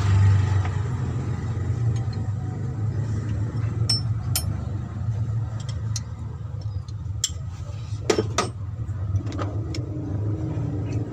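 A few sharp metallic clinks and knocks of hand tools and engine parts being handled, two close together about eight seconds in, over a steady low hum.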